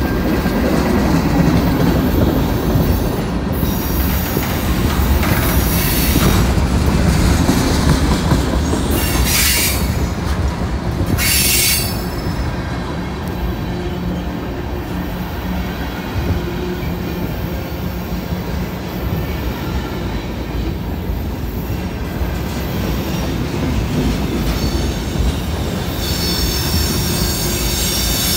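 Freight cars of a long mixed freight train rolling past close by: a steady rumble and clatter of steel wheels on the rails. High-pitched wheel squeals come in about nine and eleven seconds in and again near the end.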